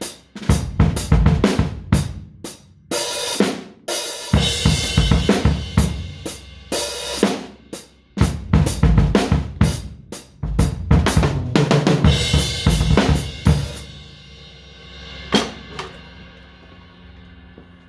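Drum kit played loosely and hard in dense, irregular fills. The playing stops about fourteen seconds in, then comes one last hit while the kit rings out and fades.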